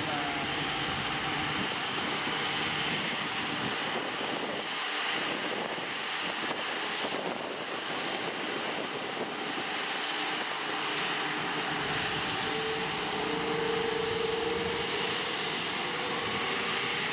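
Jet airliner engines running at an airport, a steady rushing noise with a faint tone in it, typical of an aircraft taking off or taxiing on the runway.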